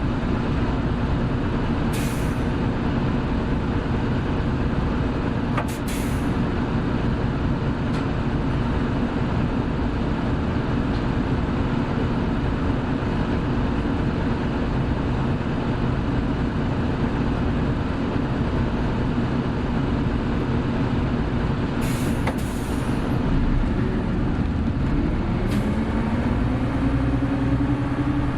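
Hino Blue Ribbon City Hybrid city bus running, its drivetrain holding a steady hum with short hisses of air a few times. Near the end the pitch rises as the bus accelerates.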